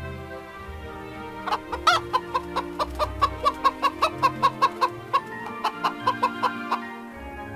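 A chicken clucking in a fast, even run of short clucks, about four a second, starting a second and a half in and stopping near the end, with one louder call at the start of the run. Background music plays throughout.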